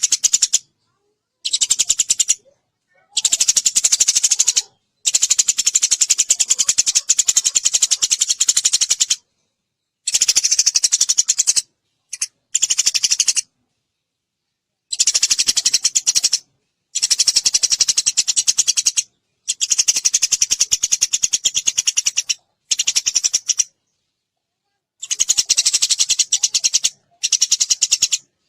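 Eurasian tree sparrows chattering in fast, dense runs of chirps. The chirping comes in bursts of one to four seconds that start and stop abruptly, with dead silence between them, as in an edited birdsong training track.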